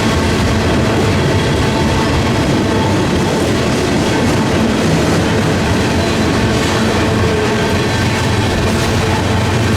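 Freight train rolling past, its cars clattering steadily over the rails, with gusty wind buffeting the microphone.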